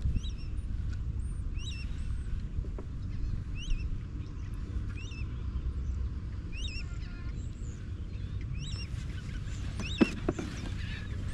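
A bird calling over and over, a short high squawk about once a second, over a steady low rumble. A few sharp knocks come near the end.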